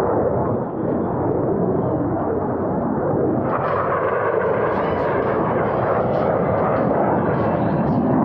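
Jet noise from Blue Angels F/A-18 Super Hornets flying the show: a steady, loud rushing roar that turns brighter and hissier about three and a half seconds in.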